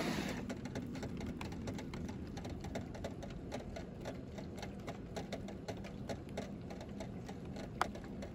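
Rain falling, heard as a steady hiss with many irregular ticks of drops landing on a hard surface close by; one tick near the end stands out a little louder.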